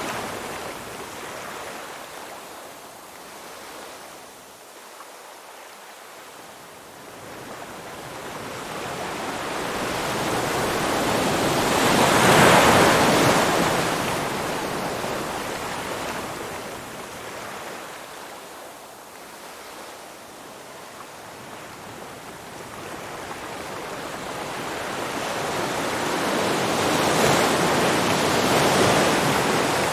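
Ocean surf: waves rolling in and washing back in slow swells, each building and fading over several seconds, loudest about twelve seconds in and again near the end.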